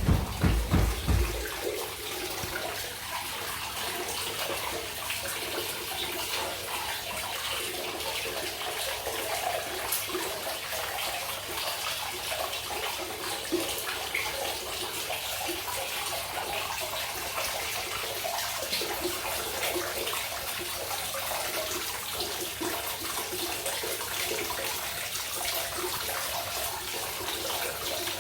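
Hot spring water pouring steadily into a bath, an even rushing splash. A deep rumble sits under it for the first second and a half, then stops suddenly.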